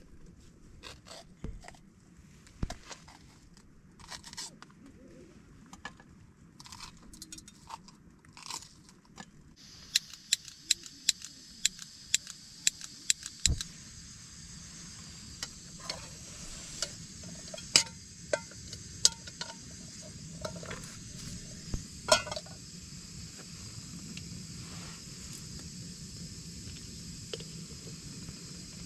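Hands snapping and tearing a chilli and an onion, with crunches and clinks of pots and utensils, then a quick run of sharp clicks. About halfway in, a steady hiss sets in and holds under occasional knocks.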